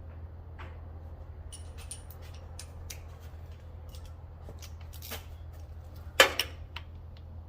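Hand tools clicking and tapping on metal while working the old starter switch loose, a scatter of small clicks with a sharper knock about six seconds in.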